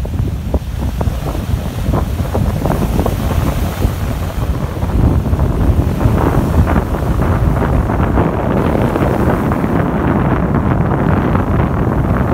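Sea surf washing and splashing onto the shore, with strong wind buffeting the microphone in a heavy low rumble. The splashing grows busier and louder about five seconds in.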